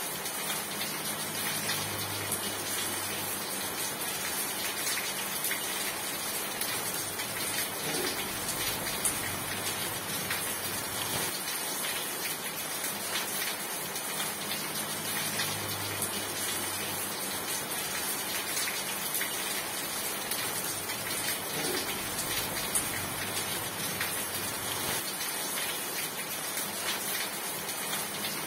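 Steady rain: a dense, even hiss full of fine patter from individual drops. A faint low rumble swells and fades twice, near the start and about halfway through.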